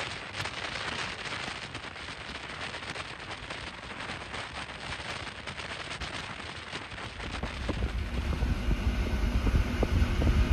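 Sleeper train running at speed: a steady rushing hiss with many small clicks and crackles. About seven seconds in, a much louder low rumble and wind come through an open corridor window.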